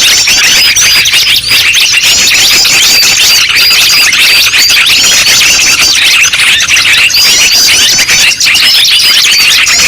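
Loud, unbroken chorus of many small songbirds chirping and twittering over one another: a noisy bird-luring (pikat) recording made to draw in wild birds.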